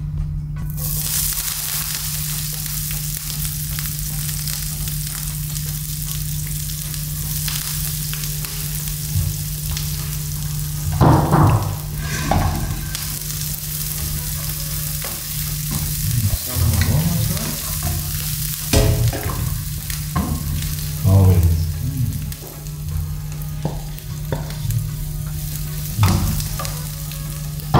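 A coconut dumpling frying in hot oil in a frying pan, a steady sizzle that starts about a second in. A utensil clatters and scrapes now and then while a second pan is stirred.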